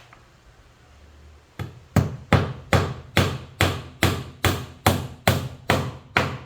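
A hammer driving a nail into wood, about a dozen steady strikes a little under half a second apart, starting about a second and a half in. The nails are square copper boat nails being driven to fasten a plywood bulkhead.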